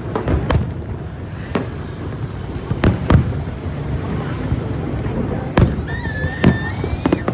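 Aerial fireworks bursting: a series of sharp bangs roughly every second or two, some in quick pairs, over a continuous low rumble. A brief high whistle sounds near the end.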